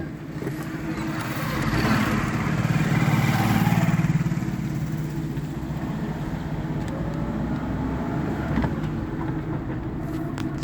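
Car being driven along a road: steady engine and road noise, swelling louder for a couple of seconds near the start.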